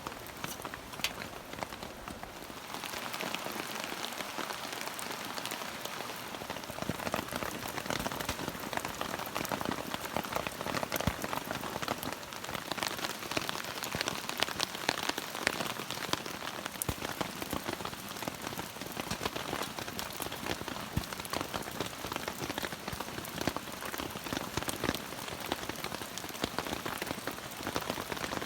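Steady rain falling, with a dense patter of individual drops striking close by; it grows slightly heavier about three seconds in.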